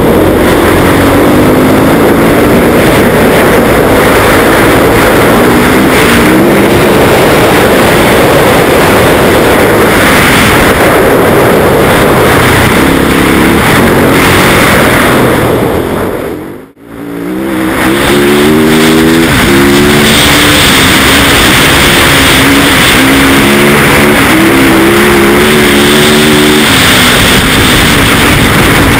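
Yamaha YZ450F's single-cylinder four-stroke engine accelerating hard on ice, its pitch rising in repeated sweeps and dropping back as it shifts gears, over a heavy rushing noise. About two-thirds of the way through, the sound cuts out almost to silence for a moment, then comes straight back.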